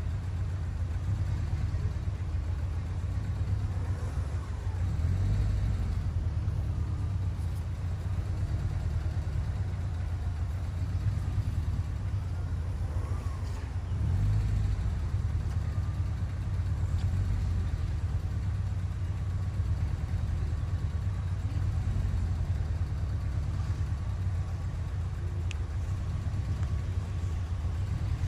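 Car engines running at low speed: a steady low rumble that swells slightly a few times.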